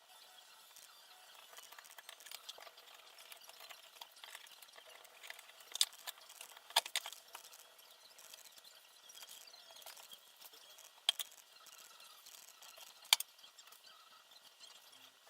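Small hard parts handled and set down: faint rustling and scraping with a few sharp clicks, two near the middle and two more later on.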